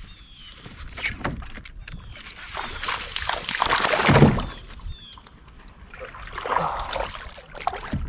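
A hooked bass thrashing and splashing at the water's surface beside the boat, in several bursts of splashing, the loudest about four seconds in.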